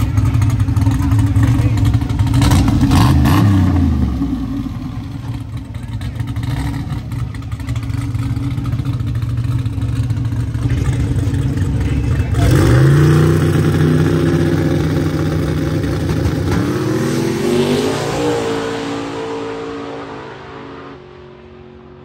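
Drag-racing truck engines at full throttle. One is loud, then its pitch falls away about three seconds in. About twelve seconds in, another launches with a sharp rise in pitch, climbs through its gears and fades into the distance near the end.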